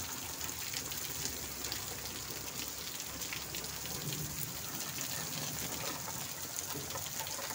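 Steady rain falling, with faint scattered raindrop taps.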